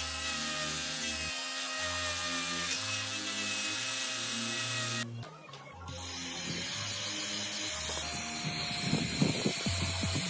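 Background music together with the steady whine of a small rotary tool. The sound drops out briefly about halfway through, and a run of light clicks and taps comes near the end.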